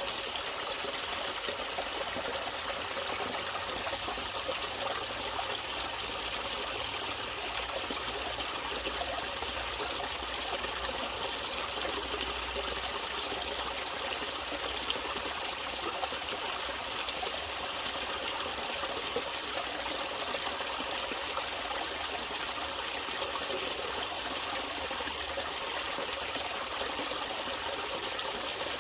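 Running water in a natural stream, trickling and flowing steadily without a break.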